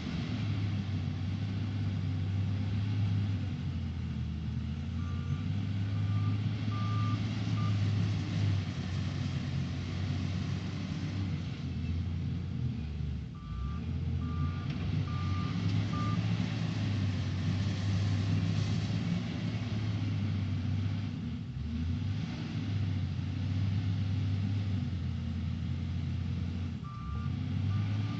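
SDLG LG958L wheel loader's diesel engine working under load while loading coal, rising and falling with each cycle. A reversing alarm sounds three times in runs of four beeps, each run coming just after the engine dips, as the loader backs away.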